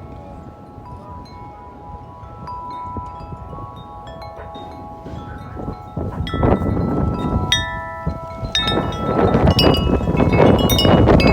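Corinthian Bells 36-inch wind chime ringing in strong wind, its long metal tubes sounding many overlapping sustained tones. About halfway through, gusts pick up: the chime is struck faster and louder, and wind rushes over the microphone.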